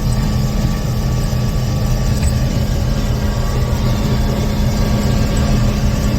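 Combine harvester's engine running at raised revs while the unloading auger empties corn from the grain tank: a steady, heavy drone with a constant hum.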